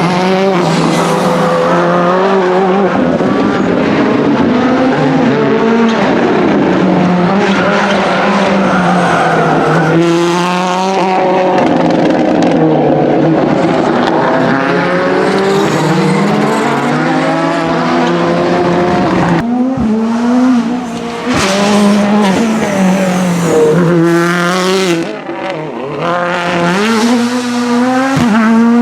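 Ford Fiesta WRC Plus rally car's turbocharged 1.6-litre four-cylinder engine revving hard, its pitch climbing and dropping again and again through gear changes, with tyres squealing and skidding. The sound rises and falls as the car accelerates away and comes past in several runs, with a couple of short dips between them.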